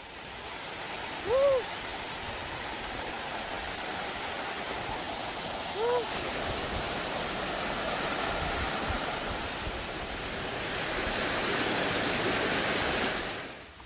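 Mountain stream water rushing steadily over rocks, swelling slowly and cutting off near the end. Two short rising-and-falling piping notes sound over it, once about a second and a half in and again about six seconds in.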